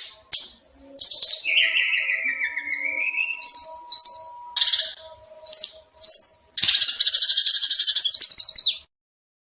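Songbird singing in rapid-fire bursts: sharp high chirps and short whistled notes, then a long harsh chattering trill starting about two-thirds of the way in.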